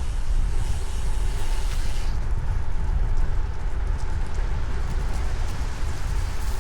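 Wind buffeting a riding cyclist's action-camera microphone, a deep rumble over a steady hiss, with rain falling and light ticks in the second half.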